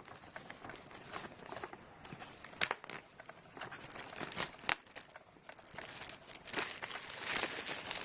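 Plastic shrink-wrap being torn and crinkled off a phone box: irregular crackling and tearing, busiest near the end.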